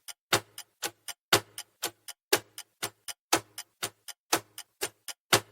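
Ticking clock sound effect of a quiz countdown timer: a louder tick about once a second, with softer ticks between.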